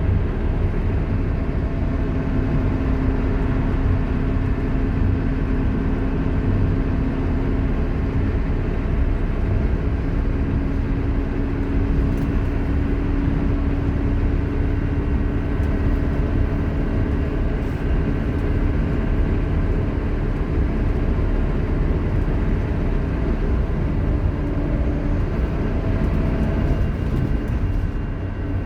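Scania K230UB Omnilink bus under way, heard on board: steady engine and drivetrain rumble with a held whine from its ZF Ecomat automatic gearbox, which is loud. The whine fades near the end.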